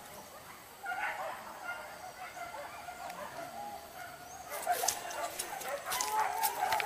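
Hunting dogs yelping and whining faintly at intervals, with a brushing, rustling noise starting about two-thirds of the way in.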